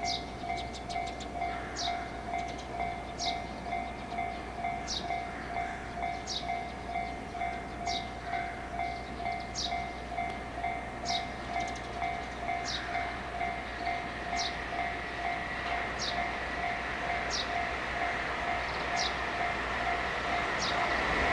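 Railway electronic warning bell ringing in a steady repeating ding, about two strokes a second, over a low rumble that grows as an EF210 electric freight locomotive approaches near the end. A short high chirp falling in pitch repeats about every second and a half.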